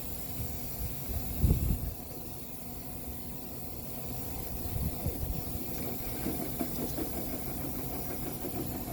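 A motor running steadily, humming over a hiss of rushing air, with a few dull low thumps, the loudest about a second and a half in.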